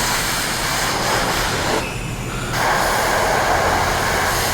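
Car-wash high-pressure rinse wand spraying water onto a motorcycle's plastic hand guards: a steady hiss of spray that dips briefly about two seconds in, then resumes.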